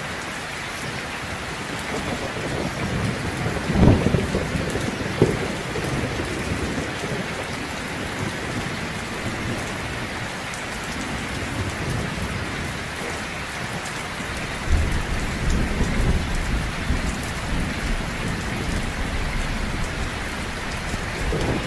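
Heavy rain falling steadily, with thunder: two sharp loud cracks about four and five seconds in, then a low rumble that rolls in about two-thirds of the way through.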